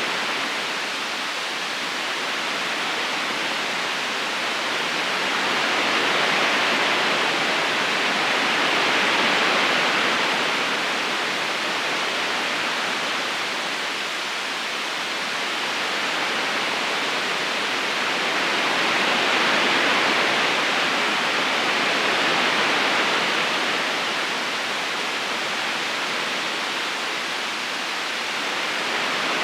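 Steady rush of a river current: an even, hissing wash of flowing water with no separate splashes, swelling and easing slowly every several seconds.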